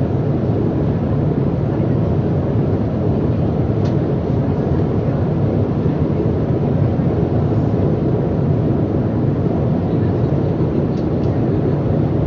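Steady cabin noise of a passenger airliner in flight: an even, low rumble of engines and rushing air, with a couple of faint ticks.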